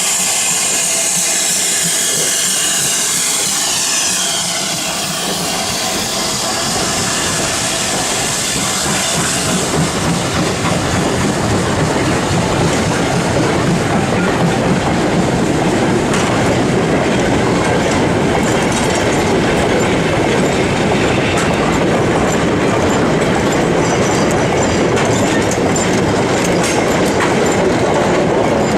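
A steam-hauled train passing close by. A loud hiss fills the first few seconds, then the carriages roll past with a steady clatter of wheels over the rail joints.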